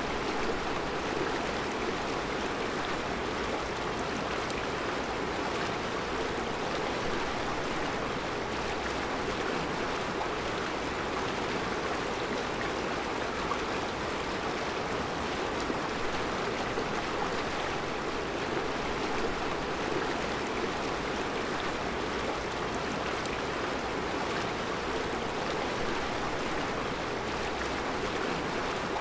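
Mountain river flowing over round rocks in a rocky bed: a steady rushing of water with no change over the whole stretch.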